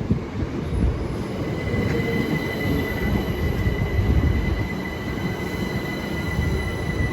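Class 377 electric multiple unit, two units coupled together, running through the station: a steady low rumble with a thin, steady high-pitched tone held over it.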